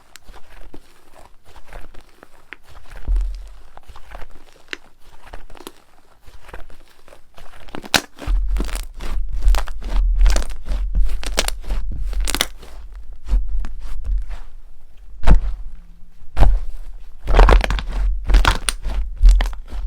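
Slime being squeezed and pressed by hand, with dense crackling and popping clicks that grow louder and fuller about halfway through, over soft low thuds.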